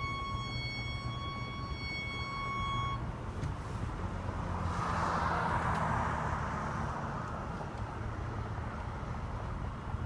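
2012 Range Rover Sport moving at parking-lot speed with a steady low rumble; a pitched chime beeps three times at the start, then a loud rushing noise swells and fades over a few seconds in the middle. This is the loud low-speed noise that comes on after the car has been driven for some time.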